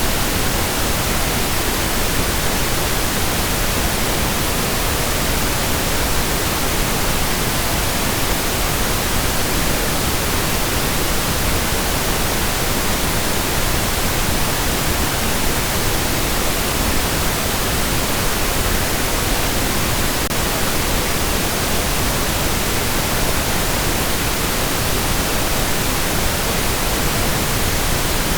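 Steady pink noise: an even, unchanging hiss spread across all pitches, with no tones or events.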